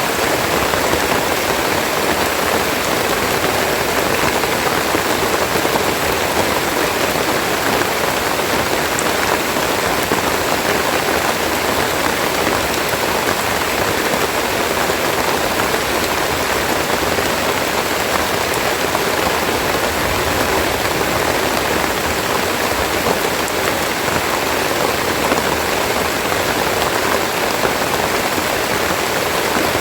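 Steady rain falling, a dense even hiss of drops on foliage and surfaces, with no let-up.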